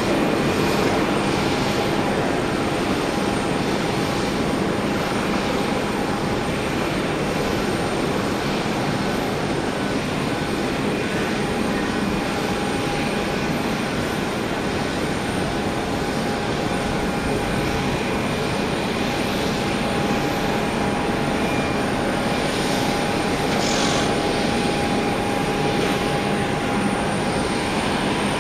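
Boeing 737 jet engines running, a steady rush of noise with a thin constant whine over it.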